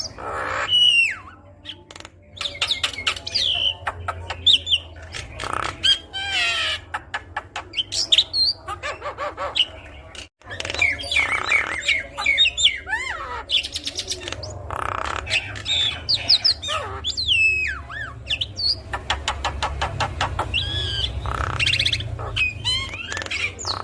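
Javan myna (jalak kebo) in full song: a varied run of whistles gliding up and down, harsh squawky notes and rapid clicking rattles. There is a short break about ten seconds in.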